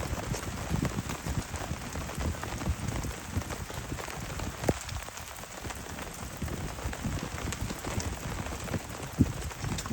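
Heavy rain striking a surface: a dense run of separate drop hits over steady rain noise, with a couple of sharper knocks, one about halfway through and one near the end.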